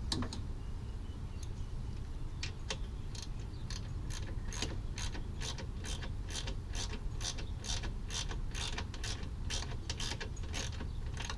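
Ratchet wrench clicking in an even run of about three clicks a second as a radiator mounting bolt is run in.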